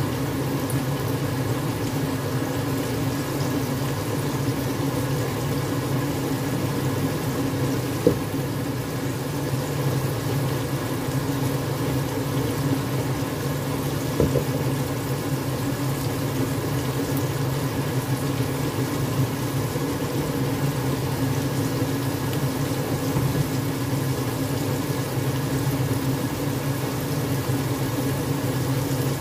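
Coated chicken pieces frying in oil in a wok with a steady sizzle, under a steady machine hum that is the loudest sound. Two light knocks, about 8 and 14 seconds in.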